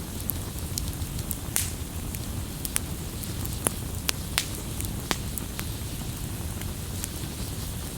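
Wood campfire crackling: sharp pops and snaps over a steady low rumble of the burning fire. The pops come thickest in the first five seconds or so, then grow sparser.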